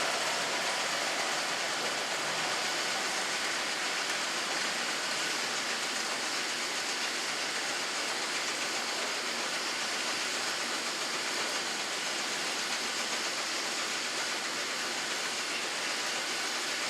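A load of shelled-size peanuts pouring steadily out of a tipped trailer into a receiving pit, an even rushing hiss like rain or running water.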